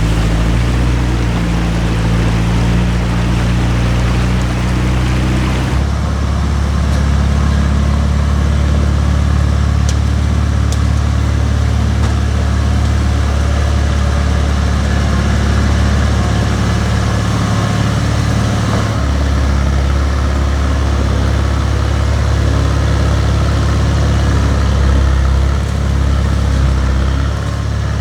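A motor vehicle engine running steadily, its pitch changing abruptly about six seconds in and again later.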